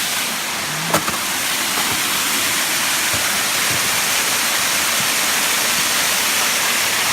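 Steady sound of water falling at a partly frozen waterfall, with a single sharp click about a second in.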